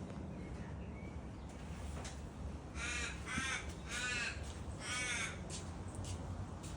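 A crow cawing four times in quick succession, harsh calls a little over half a second apart.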